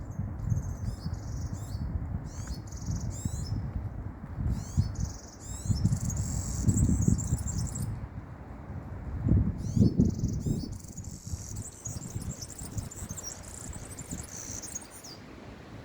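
Small songbirds chirping and trilling in quick high notes, one bird after another through most of the stretch, over a low, uneven rumble that is the loudest part of the sound.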